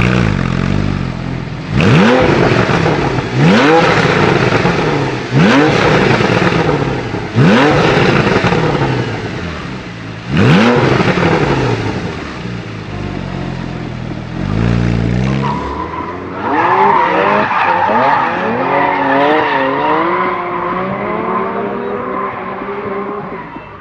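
Porsche 991 Carrera S flat-six revved through its exhaust in five quick blips, each climbing sharply and then falling back. In the last third the engine note wavers up and down more gently, with a steady high tone over it.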